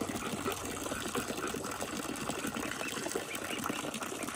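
Ducks dabbling and splashing in water, a steady rapid watery chatter of bills and paddling.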